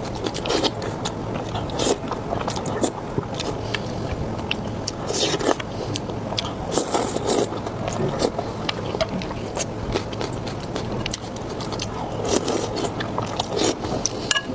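Close-miked eating: a person biting and chewing food, with many irregular wet clicks and smacks of the mouth.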